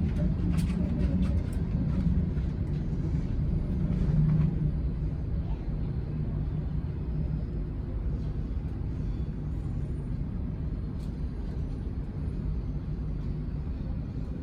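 Steady low engine rumble with a constant hum, a little louder for the first few seconds and then easing to a lower steady level.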